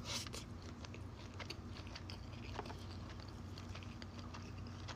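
Close-miked chewing of a sushi roll, with soft wet mouth clicks and smacks scattered through, over a steady low hum.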